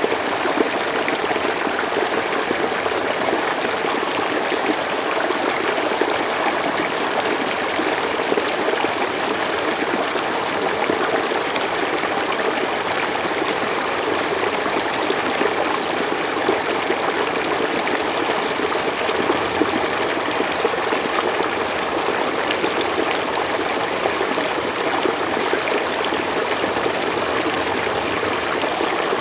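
River or stream water flowing over rocks, a steady, even rushing and babbling.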